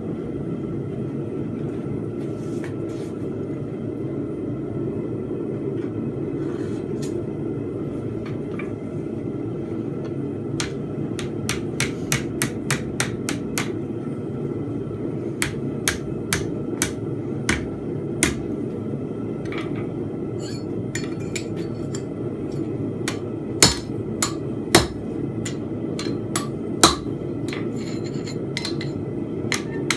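Blacksmith's hammer blows on hot steel at the anvil, forging a fence peg. The blows come in irregular runs starting about a third of the way in, with a few heavier strikes later on, over a steady low rushing noise.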